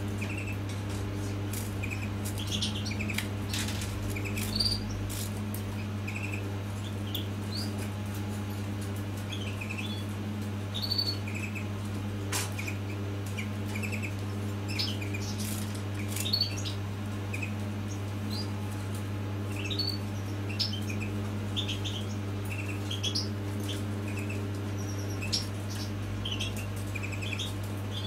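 Small cage birds chirping: short, high chirps scattered irregularly, over a steady low electrical hum.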